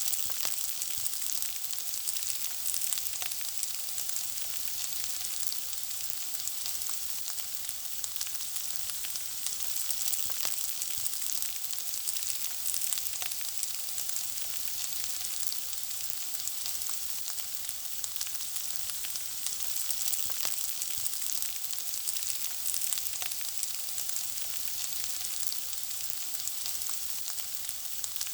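Food frying in a pan, a steady high sizzle with many small pops and crackles.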